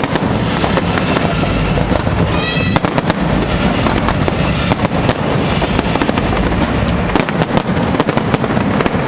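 Fireworks going off continuously: a dense run of rapid bangs and crackles over a steady rumble of explosions.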